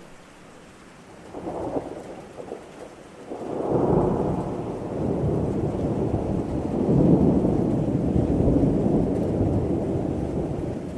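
Thunderstorm: steady rain, then a first rumble of thunder about a second and a half in, and a longer, louder roll of thunder from about three and a half seconds in that keeps rumbling.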